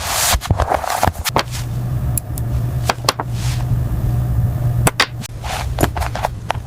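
Machinery running with a low steady hum through the middle, overlaid with many sharp clicks and knocks and a few short hissing swells.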